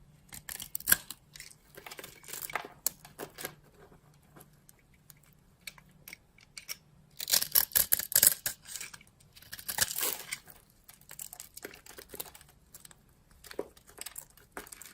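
Knife cutting through dry soap: crisp, crunchy scraping strokes in short clusters, with the densest and loudest run of crackling about halfway through and another shortly after.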